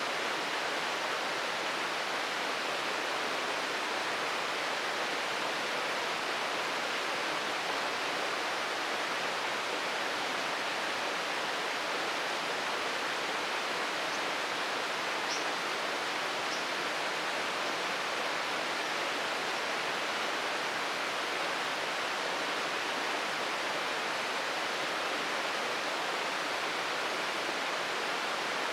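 Shirogane Falls, a waterfall, running with a steady, even rush of falling water that does not change. A few faint, short high chirps sound briefly about halfway through.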